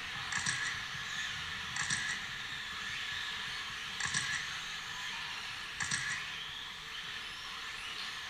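Electric 1/10 RC stadium trucks racing on a track: a steady hiss of motors and tyres, broken by short clattering bursts every second or two, with faint rising motor whines near the end.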